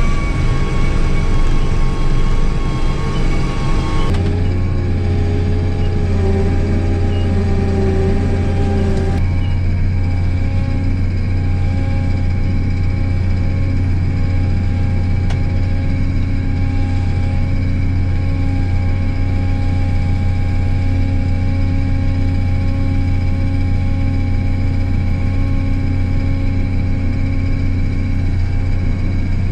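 Case IH 1660 combine's diesel engine running steadily as the combine is driven, a constant low drone with a few higher tones that shift abruptly about four and nine seconds in.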